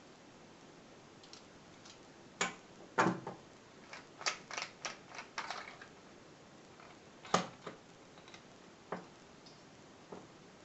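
A series of sharp clicks and light knocks, about a dozen, bunched together in the first half with a few scattered ones later, as of small hard objects being handled and set down. The compressor is not running.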